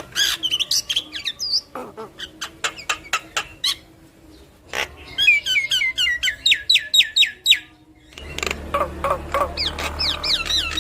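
Javan myna singing: a jumble of sharp clicks and whistled notes, then a fast run of repeated falling whistles. After a short break about eight seconds in, more repeated notes come over a low hum.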